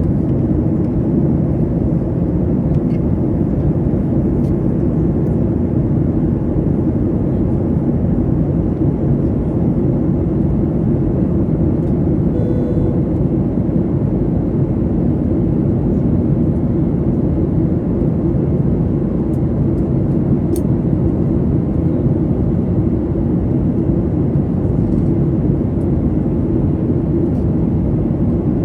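Steady low rumble of a Boeing 737-800's engines and airflow heard inside the passenger cabin in flight, with a brief faint tone about halfway through.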